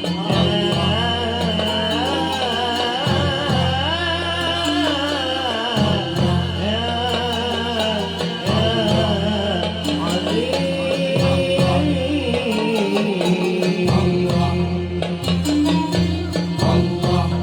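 Malouf ensemble playing live: a wavering melody line over sustained low bass notes, with steady percussion strokes.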